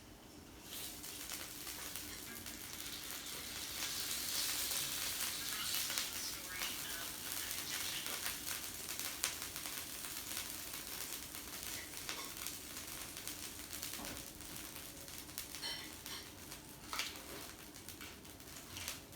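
Yakiniku meat sizzling on a table grill, the sizzle swelling about a second in, with a few sharp clicks over it.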